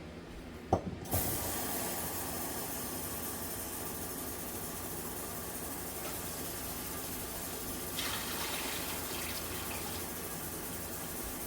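A steady stream of water running into a large pot of vegetables, filling it until the water just covers them. It starts about a second in, just after a brief knock.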